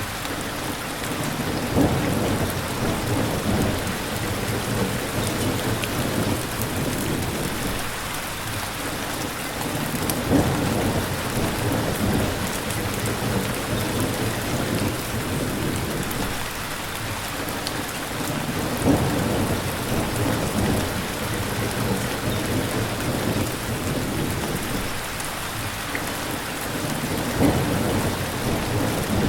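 Steady heavy rain with distant thunder: an even hiss of rain, with low rumbles swelling up about four times.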